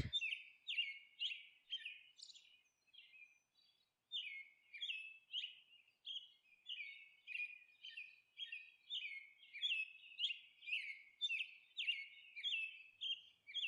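Faint bird chirping: short, falling chirps repeated about twice a second, with a pause of about two seconds shortly after the start.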